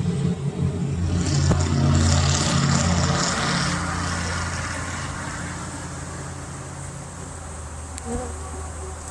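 Honeybees buzzing close around the microphone, loudest in the first few seconds and then fading. The bees are agitated and defensive because their hive has been opened without smoke.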